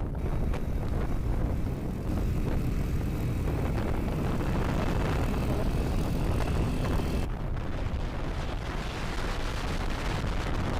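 Wind buffeting the microphone over the engine and road noise of a moving motorcycle, steady throughout.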